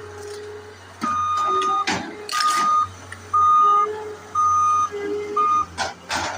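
Skid steer's backup alarm beeping about once a second as it reverses, over the machine's engine running, with loud knocks about two seconds in and again near the end.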